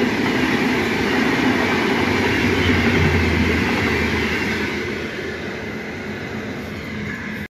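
Indian Railways passenger train of LHB coaches running past at speed: a steady rumble of wheels on rail that fades after about four and a half seconds as the end of the train goes by.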